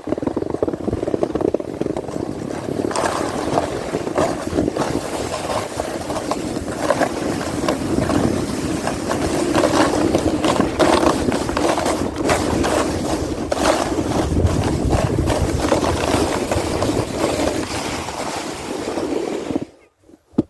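Sled sliding over snow: a continuous scraping rush with wind noise, cutting off abruptly near the end.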